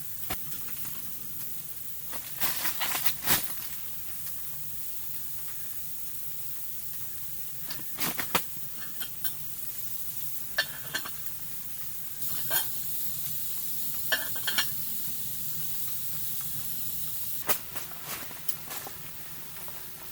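Steady sizzling hiss with irregular sharp crackles and clicks, some in short clusters, from the wood stove in a hot tent.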